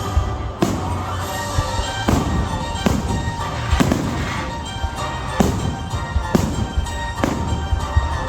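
Fireworks shells bursting, about one sharp bang a second, over music that plays throughout.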